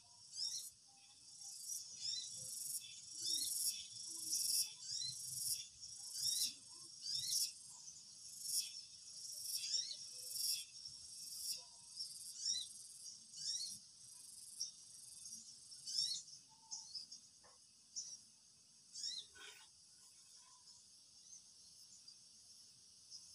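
Insects chirping in a steady high-pitched chorus that pulses about once or twice a second, louder in the first half and fading after about 11 s, with short rising chirps scattered through it.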